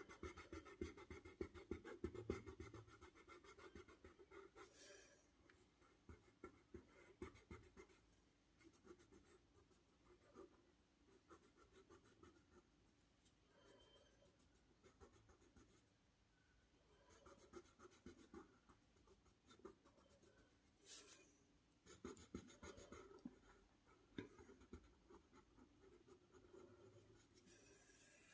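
Faint scratching of a drawing tool on paper, in irregular spurts of short strokes with brief pauses between them.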